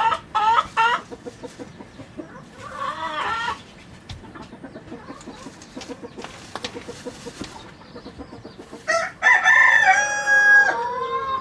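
Chickens clucking, with a few short loud calls in the first second and another round around three seconds in, then a rooster crowing once near the end.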